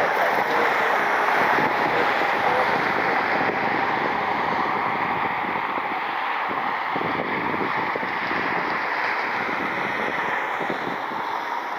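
Steady rushing noise of jet aircraft engines, slowly fading away.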